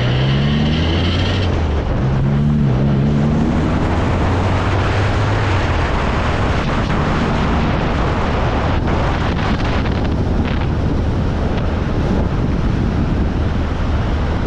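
Road and wind noise inside a moving car at highway speed, with the engine's drone rising in pitch twice in the first few seconds and then settling into the steady rush.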